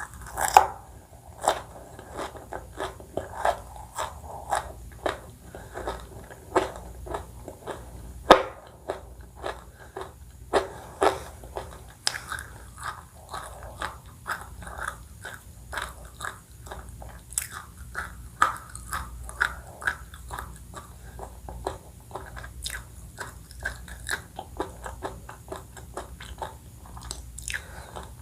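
Close-miked eating: bites and crunchy chewing in a fast, irregular run of crackles and smacks, with the sharpest bites about half a second in and about eight seconds in.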